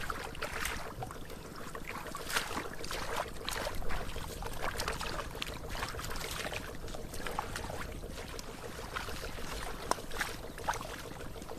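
Water splashing and sloshing in many irregular short bursts, like someone moving through or scooping shallow water.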